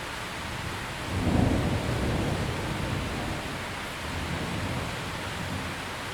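Steady heavy rain, with a low rumble of thunder swelling about a second in and fading over the next two seconds, then a softer second roll a few seconds later.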